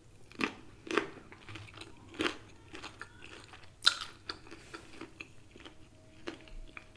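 Close-up mouth sounds of someone chewing crispy fried chicken: irregular crunches of the breading, the sharpest crunch about four seconds in.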